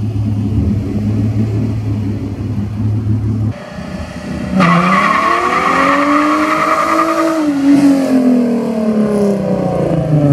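Car engine running steadily, then about four seconds in it revs up and holds high with tyres squealing for a few seconds, before the revs slowly wind back down.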